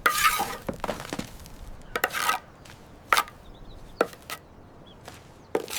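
Hand-tool work on a wall under repair: about six separate knocks and short scrapes, unevenly spaced, the first one longer and noisier.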